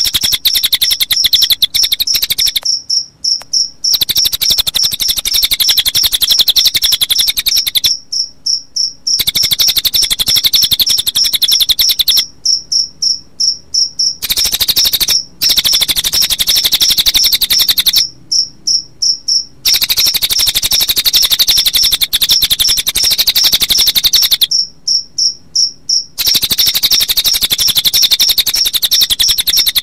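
Recorded cililin birdsong mixed with cricket chirping: a high, rapidly pulsing trill that keeps breaking off into short pauses of a second or two and then resumes.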